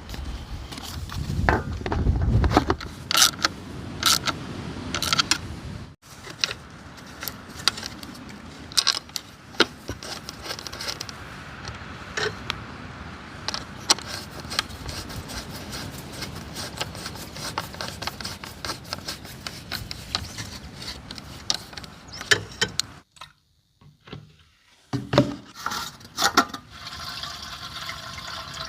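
Small carburetor parts being handled and worked on: repeated clicks, clinks and scraping, with some liquid sound, and a brief silence near the end.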